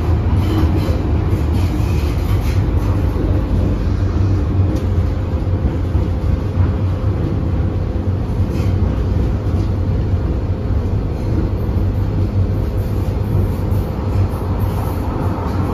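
Interior running noise of an MTR M-train electric multiple unit in motion: a steady low rumble of wheels on the track with a faint steady tone above it.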